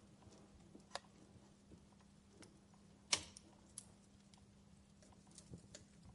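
Fireplace crackling: scattered sharp pops and ticks over a faint steady hum, with one louder pop about three seconds in.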